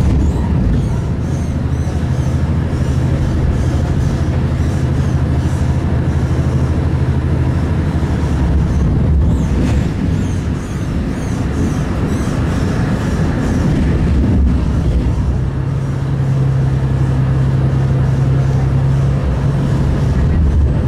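Stadler Citylink tram-train running at speed, heard from inside the passenger car: a steady rumble with a low hum as it crosses a steel truss bridge. A steady low tone sets in about two thirds of the way through.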